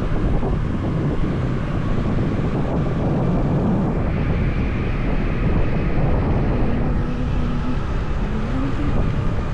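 A motorbike's engine runs steadily while riding, with wind rushing over the microphone. A faint higher whine comes and goes in the middle.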